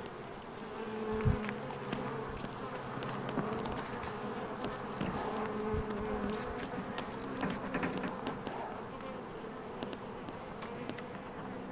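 Honeybees from a captured swarm buzzing around the swarm box, a steady hum, with a couple of low thumps about a second in and near the middle.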